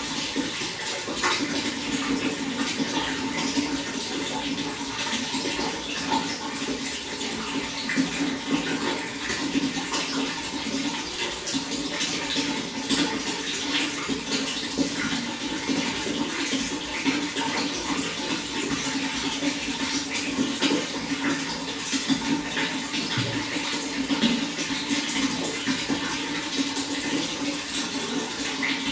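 Running water, a steady splashing flow with many small splashes and drips throughout.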